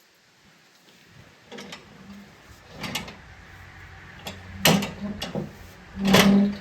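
Irregular metal clunks and scrapes of mower deck mounting parts being handled and fitted, with the two loudest knocks near the end.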